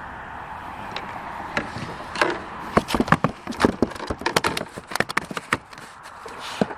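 A quick, irregular run of sharp knocks and taps, from about two seconds in until nearly six seconds, with one more knock near the end.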